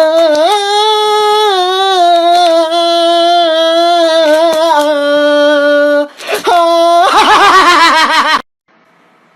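A single voice singing long held notes that step up and down in pitch. It breaks off about six seconds in, comes back with a short note and then a fast warbling wobble, and cuts off suddenly near the end.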